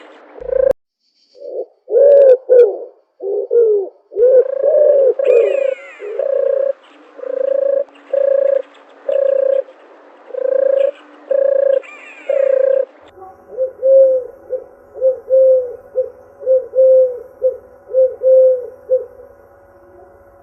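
Doves cooing: a steady series of coos, each about half a second long. About two-thirds of the way through, the sound changes abruptly to quieter, shorter coos over a steady background hum.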